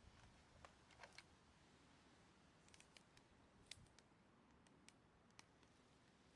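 A small wood fire crackling faintly: a few scattered, irregular sharp pops over near silence.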